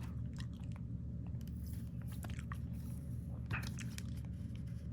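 Trading cards being handled and shuffled, with scattered light clicks and ticks over a steady low hum.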